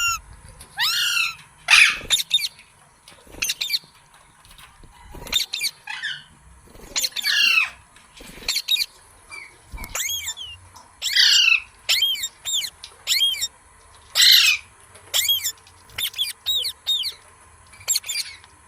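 Green parrot calling: a run of short, shrill squawks, about one to two a second, with brief pauses between them.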